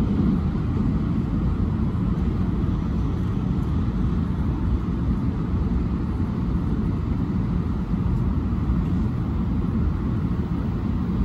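Hokuriku Shinkansen bullet train running, heard inside the passenger cabin: a steady low rumble with a softer hiss above it.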